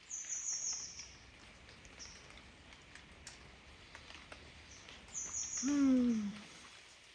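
A small bird chirps twice, each time a quick run of high notes stepping down in pitch. Faint scattered ticks sound in between, and a short low call falls in pitch near the end.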